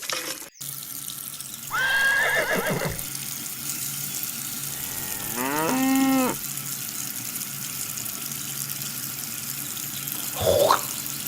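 Water running steadily, with farm-animal calls over it: a high wavering call about two seconds in, a longer call that rises and then holds around six seconds in, and a short call near the end.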